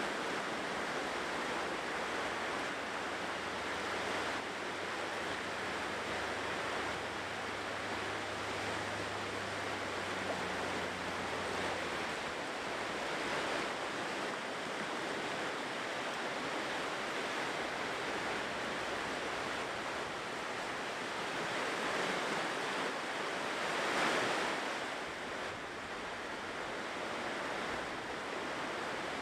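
Ocean surf washing steadily onto the shore, swelling and ebbing every several seconds, with one louder wave breaking about three quarters of the way through.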